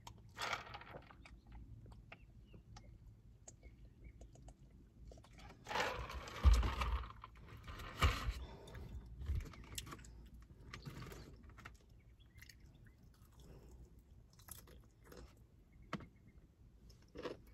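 Close-up eating sounds: chewing fried chicken wings, with a sip from a cup near the start. A plastic takeout tray rattles and knocks while being handled, loudest about six to eight seconds in.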